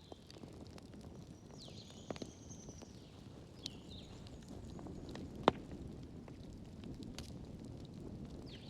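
Wood fire burning in a fireplace: a steady low rumble with scattered crackles, and one sharp, loud pop about five and a half seconds in.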